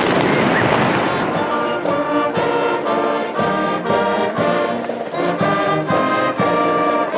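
The tail of a feu de joie ripple of blank rifle shots dies away in the first second, then a military brass band plays a phrase, with a few sharp drum strokes.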